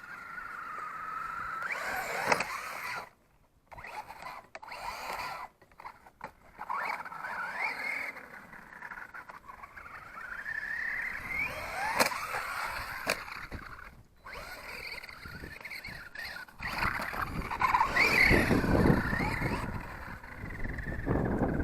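RC monster truck's motor and drivetrain whining, the pitch rising and falling with the throttle and cutting out briefly several times. A heavier rumble joins near the end.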